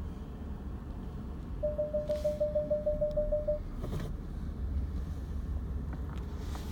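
Low engine and road rumble inside a 2015 Ford F-150's cab, with a quick run of about a dozen electronic warning beeps, about six a second, starting about one and a half seconds in and lasting two seconds.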